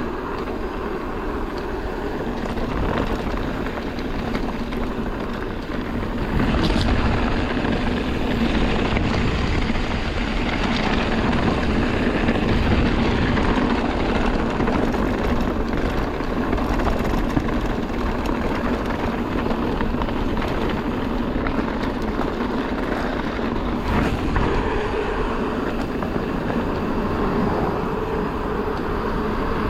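Mountain bike being ridden along a trail, with steady wind rushing over the helmet or handlebar camera's microphone and a low rolling rumble, plus a few brief clicks and knocks.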